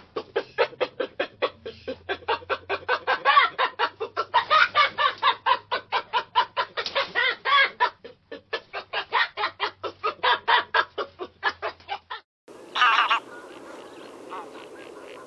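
A rapid run of short, evenly repeated animal calls, several a second, that stops abruptly, followed by one short, louder call.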